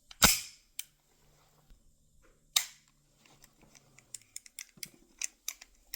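Two loud sharp plastic-and-metal clacks about two and a half seconds apart, then a run of small quick clicks and taps, as the Z1 Compact Adaptive airsoft pistol is handled and worked.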